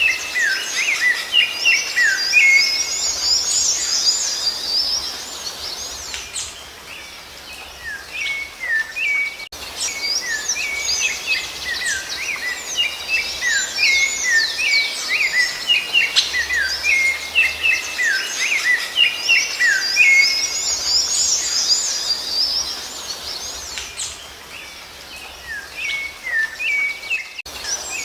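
Rufous-bellied thrush (sabiá-laranjeira) singing: dense runs of quick whistled notes sliding up and down, in two long bouts that each thin out for a few seconds.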